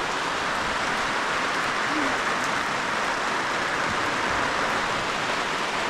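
Steady rain falling, an even constant hiss.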